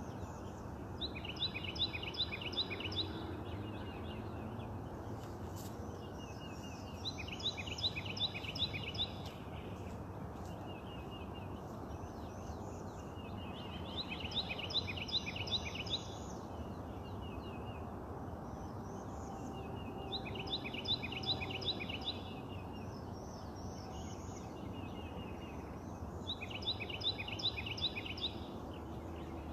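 A songbird singing the same short phrase over and over, a quick run of repeated notes lasting about two seconds, about every six seconds, five times. A steady low background noise runs underneath.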